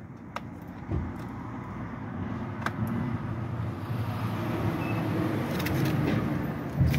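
A motor vehicle engine running, growing louder over several seconds, with a few light clicks of plastic being handled early on and a thump near the end.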